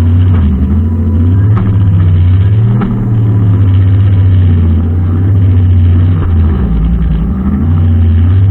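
Brushcutter engine running steadily, its pitch wavering up and down every few seconds as the load changes, with a few faint ticks.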